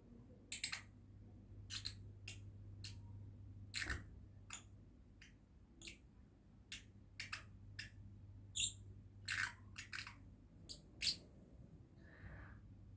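Young lovebird giving a dozen or more short, sharp chirps at irregular intervals, about one a second, with a softer, longer call near the end. A steady low hum runs underneath.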